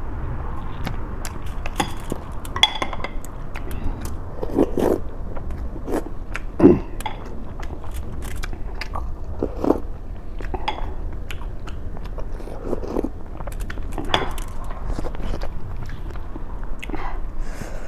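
A person chewing and biting food close to the microphone: irregular crunchy bites and wet mouth clicks, with several louder bites scattered through.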